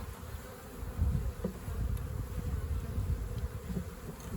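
Honeybees from a swarm-trap colony buzzing in one steady hum, disturbed as their comb is cut out and moved into a hive. Low rumbling and a few soft knocks run underneath.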